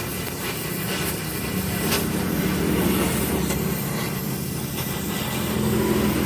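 Mitsubishi Canter truck's diesel engine running through an aftermarket 'wolf-sound' exhaust, a steady low drone that swells slightly about halfway through and again near the end.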